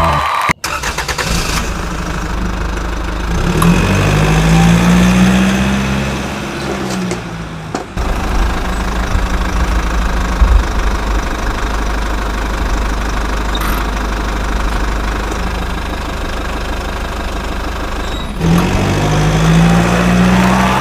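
A motor vehicle engine running steadily with a low rumble. It revs up and back down about four seconds in and again near the end, and briefly cuts out and restarts about eight seconds in.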